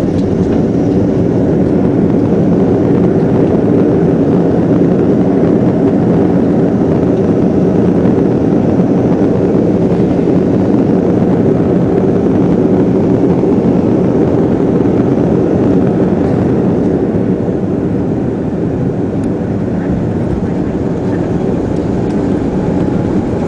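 Airbus A330 airliner heard from inside the cabin during landing: a steady, loud rush of engine and airflow noise that eases slightly a few seconds before the end.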